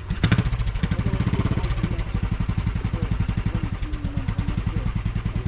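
A vehicle engine starts suddenly and runs on at a steady, pulsing idle, about eight to ten beats a second.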